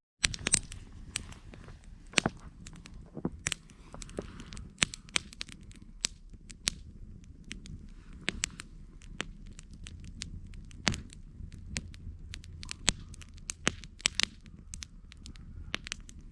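Wood campfire crackling, with irregular sharp pops and snaps, a few of them loud, over a low steady rumble.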